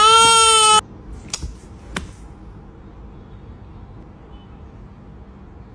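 A loud, drawn-out wailing cry, held on one pitch, that cuts off abruptly under a second in. Two sharp clicks follow, then only faint background noise.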